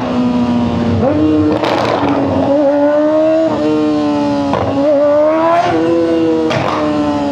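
Honda CBR600RR inline-four engine running at high revs under way, the pitch dipping briefly at each of several quick gear changes and climbing again between them, over steady wind rush.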